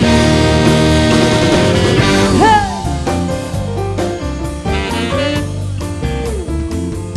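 Live band playing an instrumental blues-rock passage: a loud held chord, a note sliding down in pitch about two and a half seconds in, then a quieter stretch of shorter melodic notes over the bass and drums.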